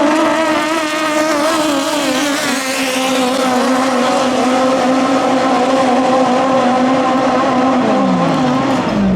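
Racing boat engine running flat out at high revs, its pitch wavering and slowly sinking, then dropping sharply near the end as it throttles off.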